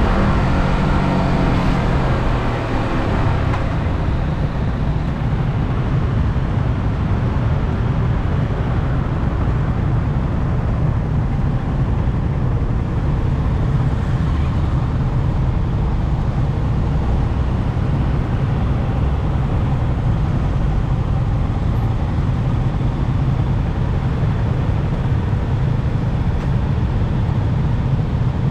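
Yamaha R15M's 155 cc single-cylinder engine running through its stock exhaust while riding. Its pitch falls over the first few seconds as the revs drop, then it settles into a steady, noisy drone.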